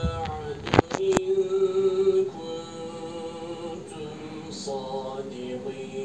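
Melodic Quran recitation: a single voice holding long, drawn-out notes, with two sharp clicks about a second in.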